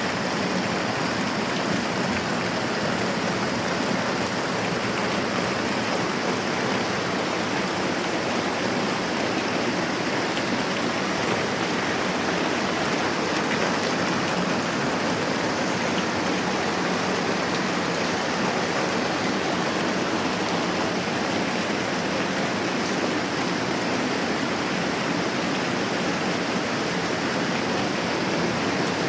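Moderate rain falling steadily, a continuous even hiss with no change in strength.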